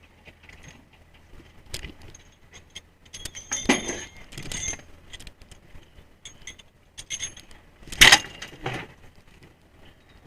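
Irregular metal clinks, rattles and knocks of rope fittings being handled on a trawler's deck, over a faint steady low engine hum. The loudest knock comes about eight seconds in.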